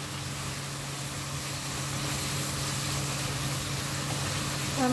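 Pork and kimchi stir-fry sizzling in a frying pan, a steady hiss with a low steady hum underneath.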